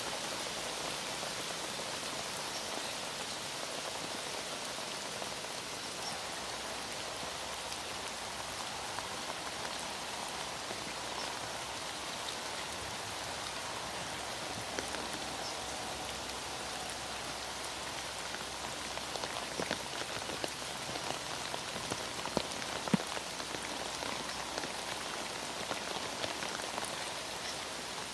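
Heavy rain falling steadily, with scattered louder drops ticking through it and a sharper tap near the end.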